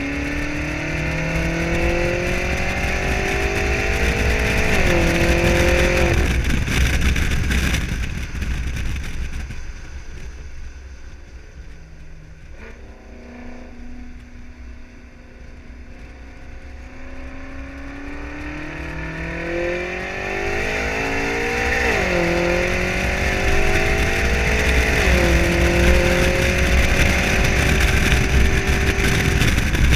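BMW M5 "30 Jahre" twin-turbo V8 through an Akrapovič exhaust, accelerating hard with rising pitch and an upshift about five seconds in, easing off about eight seconds in. It stays quieter for several seconds, then accelerates again, with upshifts near 22 and 25 seconds in.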